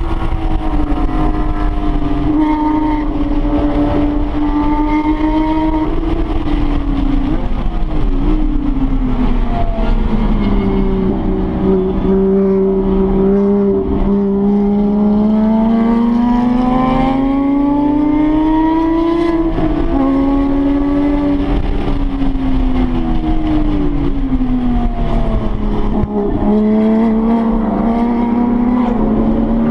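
A Porsche 911 GT3 RS's flat-six engine running hard on track, heard from inside the cabin. Its note climbs slowly as the car accelerates, drops sharply with each gear change, and falls away as the car slows.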